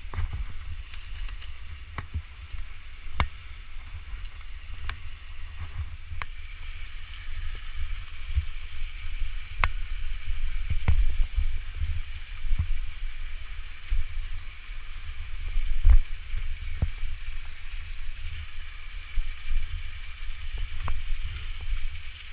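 Steady rush of a waterfall under a deep rumble on the microphone, with irregular sharp knocks and clicks throughout; the loudest knock comes about two-thirds of the way in.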